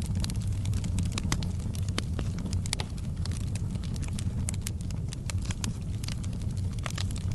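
Fire in a fireplace crackling, with many sharp irregular pops and snaps over a low, steady rumble of the flames.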